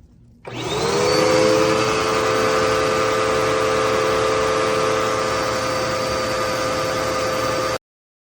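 Dirt Devil Endura Reach bagless upright vacuum cleaner switched on, its motor whining up to speed within about a second and then running steadily. It cuts off abruptly near the end.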